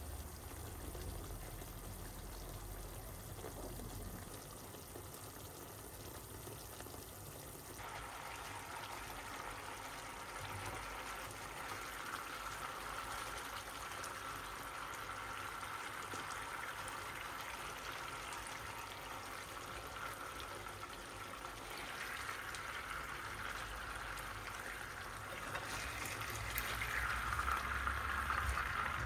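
A steady watery hiss that grows louder near the end.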